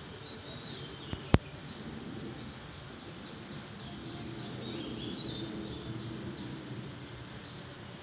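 Small songbirds calling in the trees, with a run of about ten quick, high repeated notes, roughly three a second, through the middle, over a steady background hiss. A single sharp click just over a second in is the loudest sound.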